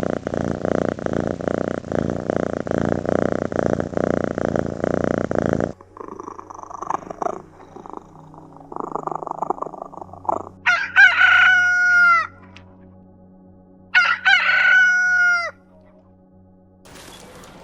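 A rooster crowing twice, each crow held and dropping in pitch at the end, a few seconds apart in the second half. It is preceded by about six seconds of dense, steady noise.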